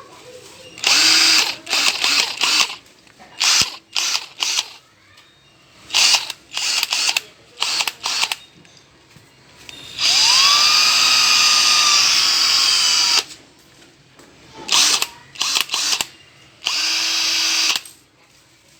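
Dewatl 38V cordless hammer drill run in a series of short trigger bursts, then one longer run of about three seconds in the middle, its motor whine rising as it spins up. A shorter, steadier run follows near the end.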